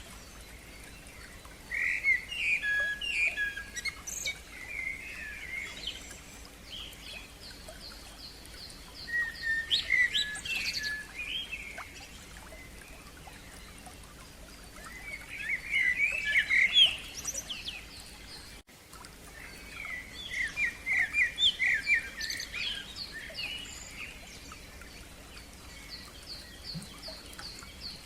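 Songbirds singing: four bursts of quick, varied chirping phrases a few seconds apart, with a thin run of rapidly repeated high notes behind them.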